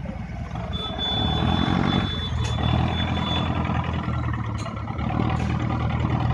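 Boat engine running steadily with water and wind noise. About a second in, a high-pitched beeping tone sounds for about three seconds.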